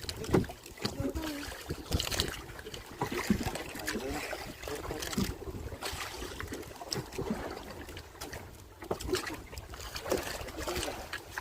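Water sloshing and splashing with irregular knocks, and wind buffeting the microphone.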